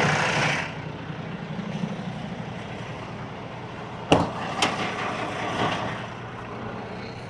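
Truck engine running steadily, with a hiss that dies away at the start and a sharp knock about four seconds in, followed by a smaller one.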